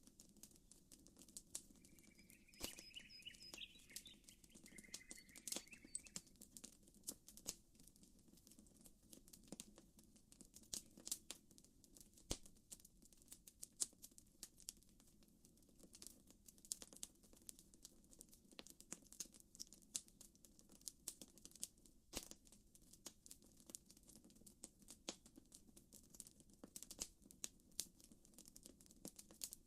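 Faint campfire crackling: irregular sharp pops and snaps over a low steady rush. A bird chirps in two short bursts a few seconds in.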